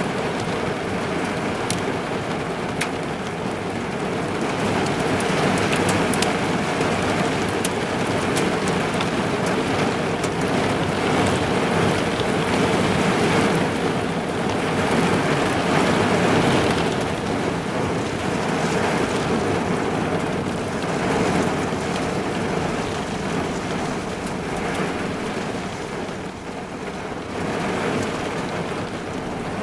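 Heavy rain falling on a car's roof and windows, heard from inside the car: a dense, steady patter that swells and eases in slow waves, with a few sharp single drop hits in the first seconds.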